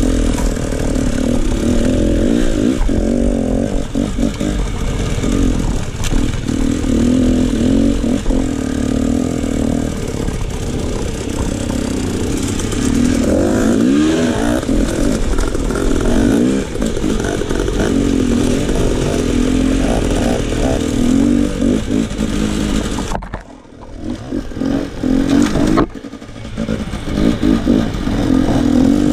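KTM enduro dirt bike engine being ridden, its note rising and falling as the throttle is opened and closed, with some clatter. Near the end the engine sound drops away briefly twice.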